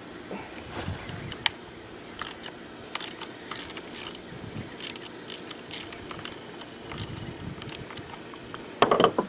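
Ratchet wrench with a 12 mm deep-well socket loosening bolts on a quad's kickstart cover, giving scattered metallic clicks. A louder burst of metal clatter comes near the end.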